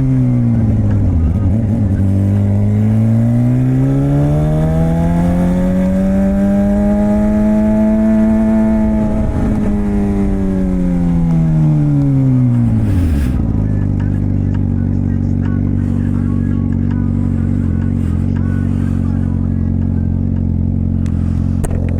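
Straight-piped Suzuki GSX-R600 K7 inline-four exhaust under way: the revs dip briefly, climb smoothly for several seconds, fall away about halfway through, then hold at a steady drone.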